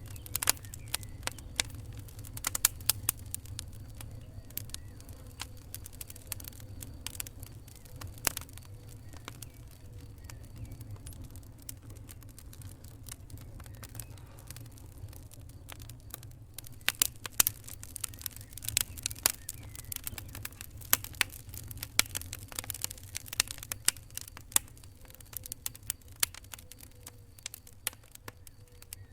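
Wood fire crackling: irregular sharp pops and snaps over a steady low rumble of the flames, the pops coming thicker in the second half.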